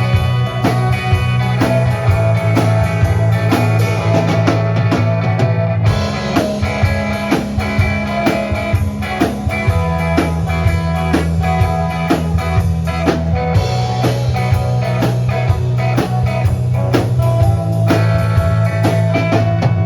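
Live band playing an instrumental passage of a blues-rock song: guitar over bass and a drum kit, with a steady drum beat and the chords changing every few seconds.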